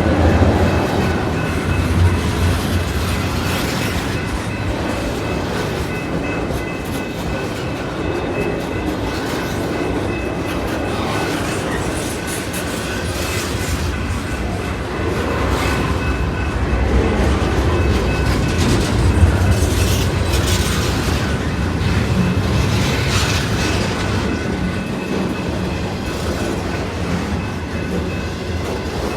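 Intermodal freight train's cars rolling past, a steady rumble with wheels clacking over the rail joints.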